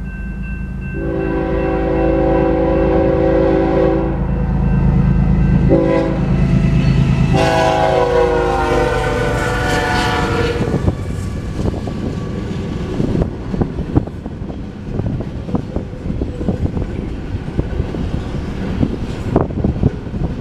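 Freight locomotive air horn sounding for the grade crossing: a long blast, a short one, and a final long blast that drops in pitch as the lead GE ES44C4 passes, over the heavy rumble of the diesel engines. After that, steel wheels clatter and knock over the rails as double-stack intermodal cars roll by.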